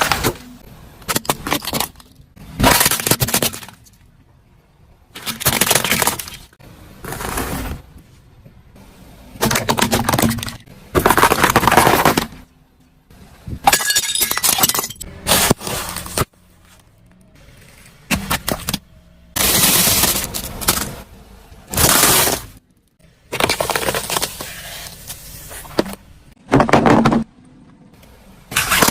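Objects crunching and breaking as a car's tyres roll over and crush them, in repeated loud bursts of about a second or two each, with short quieter gaps between.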